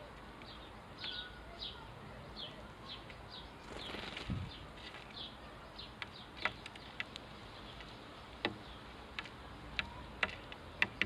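House sparrows chirping: a run of short, repeated cheeps about twice a second, then a scatter of sharp ticks and taps in the second half, with a brief rush of noise about four seconds in.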